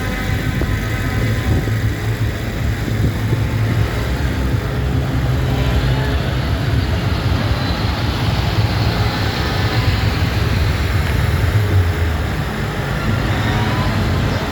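Tractor engines running as tractors drive past: a steady deep engine drone that grows louder through the middle and eases off a couple of seconds before the end.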